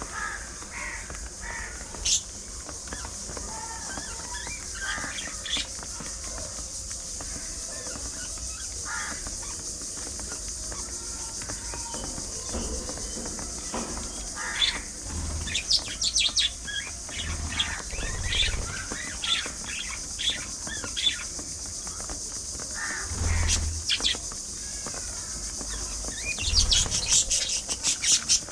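Flock of budgerigars chattering, with scattered short chirps that come thick and fast near the end.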